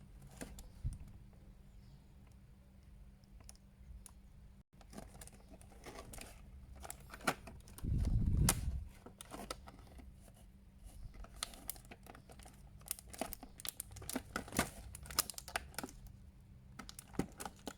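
Plastic toy packaging crinkling and clicking as small action-figure parts are worked free of their plastic bags and trays, with one dull thump about eight seconds in.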